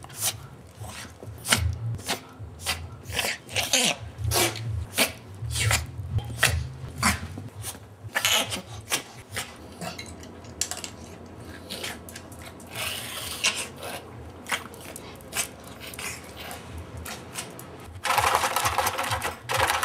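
A dog sneezing over and over: short, sharp snorting bursts, often about two a second, coming more sparsely after the middle. A longer noisy burst comes near the end.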